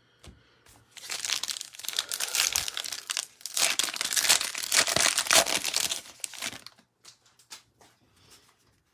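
Foil wrapper of a trading-card pack crinkling and tearing as it is ripped open and crumpled, dense crackling for about five seconds, then a few faint clicks and rustles.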